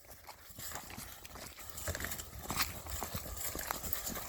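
Footsteps crunching over snowy forest ground while walking: an irregular run of short crunches that grows busier about two seconds in, over a steady low rumble.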